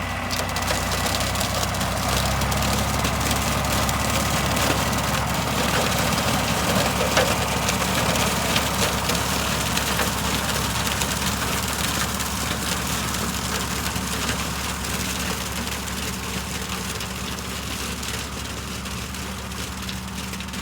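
John Deere 4020 tractor running steadily while pulling a rotary cutter through corn stalks; the cutting adds a dense hiss full of small clicks over the engine's low note. It grows louder about a second in and fades slowly over the last several seconds.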